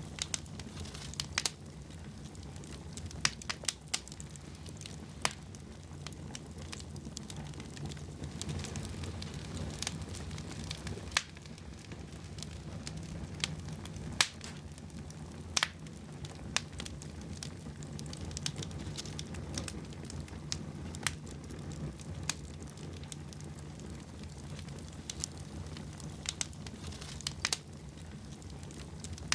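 Wood fire burning in a fireplace: a steady low rush of flames with irregular crackles and occasional sharp pops.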